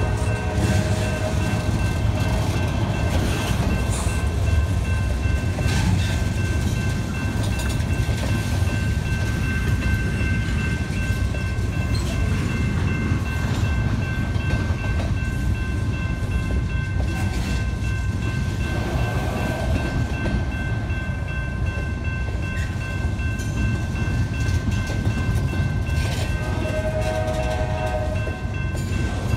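Double-stack intermodal container train passing close by: a steady rumble of wheels on the rails with scattered clicks and clanks, and a thin, steady high ringing throughout. A brief pitched tone sounds about three seconds before the end.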